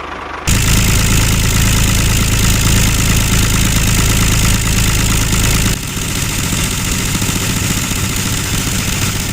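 A DIY mini tractor's motor running steadily with a low hum. It starts about half a second in and drops somewhat in level about six seconds in.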